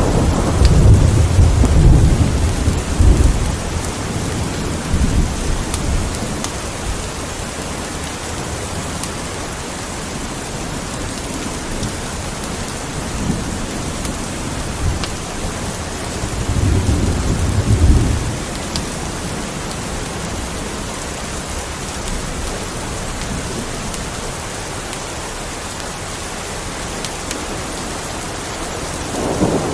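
Steady rain falling, with low rolling thunder rumbling through the first few seconds and again about seventeen seconds in.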